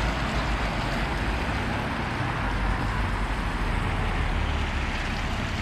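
Steady road traffic: a constant low rumble with an even hiss over it.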